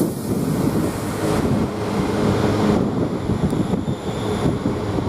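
London Northwestern Railway Class 350 Desiro electric multiple unit running into the platform: a steady rumble of wheels and running gear, with a few steady low tones through it.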